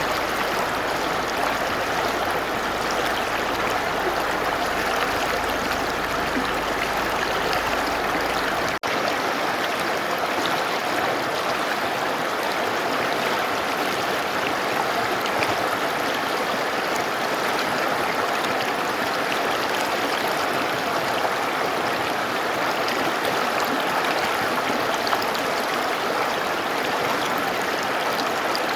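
Mountain river rushing steadily, an even wash of flowing water. A momentary dropout about nine seconds in, after which a faint deep rumble underneath is gone.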